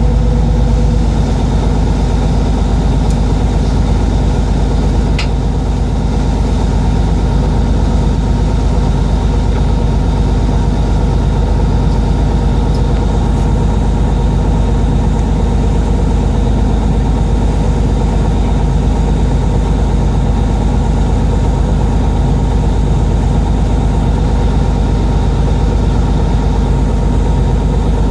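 A fishing boat's engine running steadily, a constant low drone with no change in pitch.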